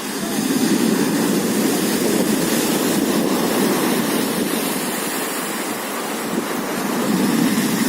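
Black Sea surf rushing on the shore, a steady wash of noise that swells about a second in and again near the end.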